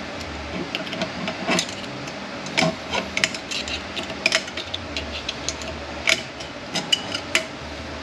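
Steel snap ring being worked around and out of its groove in a transmission clutch drum with a pick: irregular light metallic clicks, clinks and scrapes.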